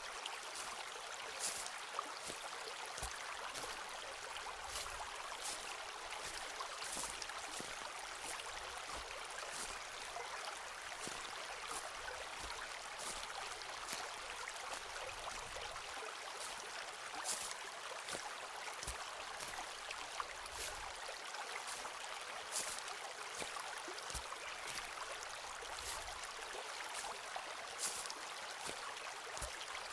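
Footsteps walking at a steady pace on a forest path, soft thuds with crisp crunches every second or so, over a steady rushing hiss.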